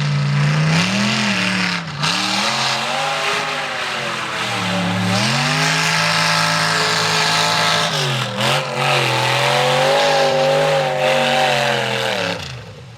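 Mega truck engine revving hard in a mud bog. Its pitch climbs and falls back several times, then the revs drop away near the end.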